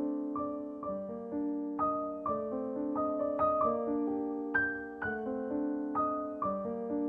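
Background piano music: a gentle melody of sustained notes, a new note or chord roughly every half second to second.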